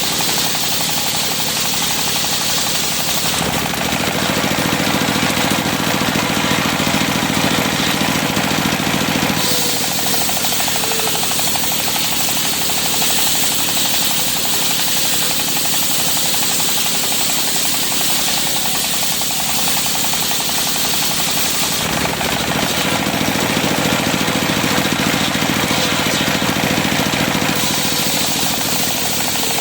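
Engine-driven circular sawmill (serkel) running steadily with a rapid pulsing, sawing cempaka wood. The sound changes for several seconds twice, about 3.5 and 22 seconds in, as the blade works through the timber.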